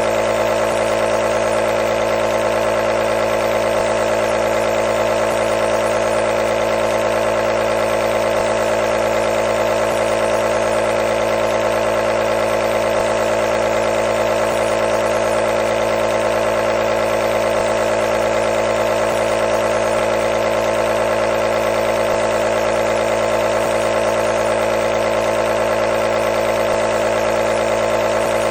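Compressor nebulizer running: its small air-compressor motor makes a continuous, unchanging buzzing hum.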